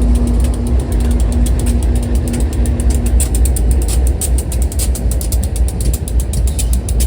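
Passing freight train: a steady low rumble with rapid, rhythmic clicking of wheels over the rail. A pulsing tone stops about three and a half seconds in.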